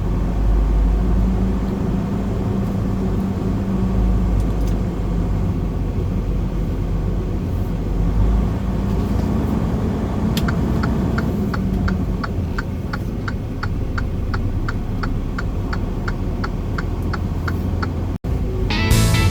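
Semi truck's engine running with a steady low rumble, heard from inside the cab. About ten seconds in, the turn-signal indicator starts ticking about twice a second. Near the end the sound cuts out for an instant and music begins.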